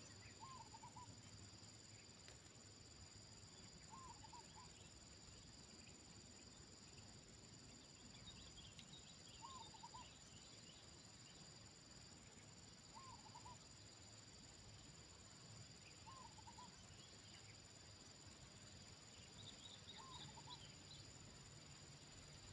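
Faint insects, likely crickets, keep up a steady high drone. A bird gives a short hooked call about every three seconds, about six times in all. Thin high chirps come twice, near the middle and near the end.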